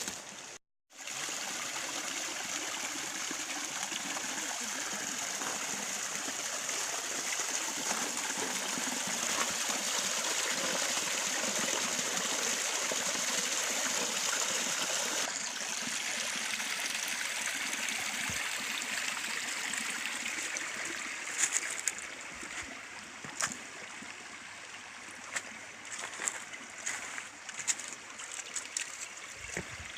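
A forest stream running steadily, with no pitched sound in it. It grows quieter about two-thirds of the way through, and scattered sharp clicks come in near the end.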